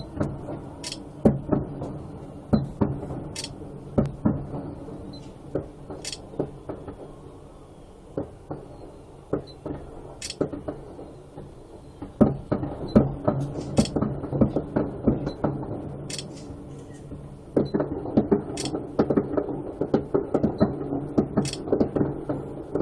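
Fireworks going off some distance away: a run of irregular booms and cracks, sometimes several close together, growing denser near the end, over a steady low hum.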